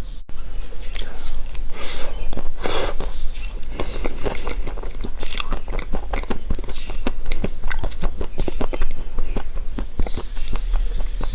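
Close-miked mukbang eating sounds: a person biting and chewing food, with a rapid, irregular run of sharp clicks and crunches.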